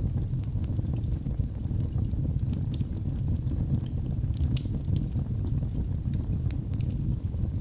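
Wood fire burning in a fireplace: a steady low rumble of flames with frequent small, sharp crackles and pops from the burning wood.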